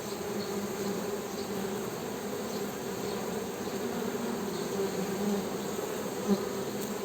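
Honey bees humming: a steady, low buzzing drone with a clear tone and its overtone. It swells briefly about six seconds in.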